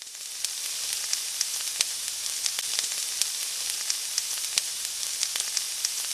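Food frying in hot oil: a steady sizzle with frequent sharp crackles and pops.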